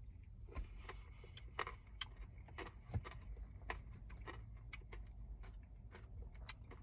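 A spoon tapping and scraping in a cup of ice cream while someone eats, heard as irregular light clicks, about one or two a second, over a low steady hum.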